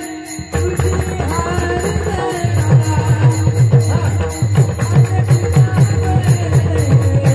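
Devotional bhajan music: small hand cymbals (taal) clashing in a fast steady rhythm over repeated drum strokes, with held melodic notes above. The music dips briefly at the start and the drum strokes thin out for a couple of seconds before coming back strongly.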